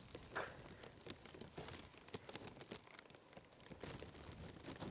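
Faint, irregular crunching and crackling of snow, with one stronger crackle about half a second in.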